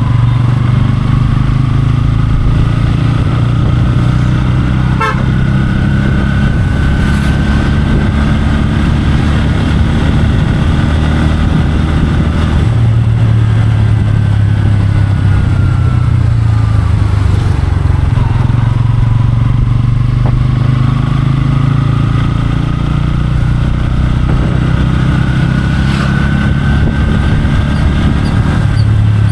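Motorcycle engine running while riding in city traffic, its note shifting as the speed changes, with a thin whine that rises and falls with it.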